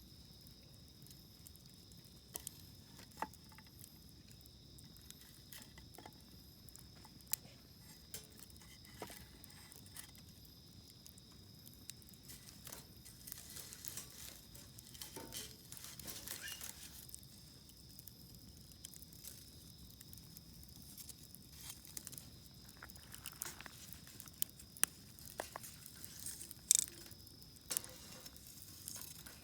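Wood campfire crackling, with scattered sharp pops and a denser spell of crackle about halfway through. A steady high chirring of insects runs underneath.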